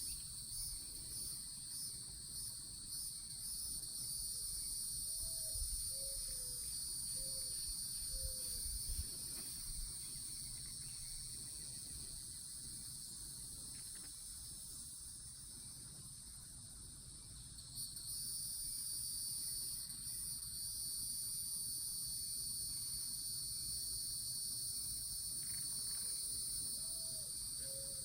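Steady high-pitched insect chorus of crickets trilling. Twice, a short series of four low hoots cuts through it, once a few seconds in and again near the end.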